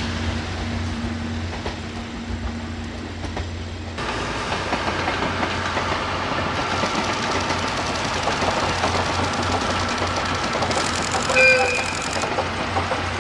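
A passenger train running past, a steady rumble and rattle of the coaches on the track. About a second and a half before the end comes one short toot of the train's horn or whistle.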